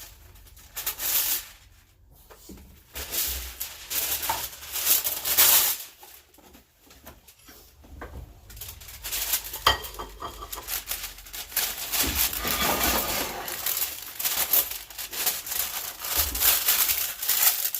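Kitchen handling noises: dishes and utensils clinking, scraping and rustling in irregular bursts, with a quieter stretch partway through.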